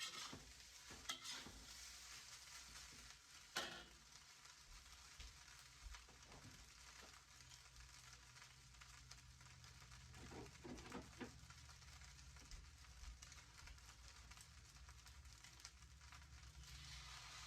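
Yellow fried rice frying in a pan: a faint, steady sizzle, with a few scrapes and knocks of a utensil stirring it, the sharpest about three and a half seconds in and a short cluster around ten seconds in.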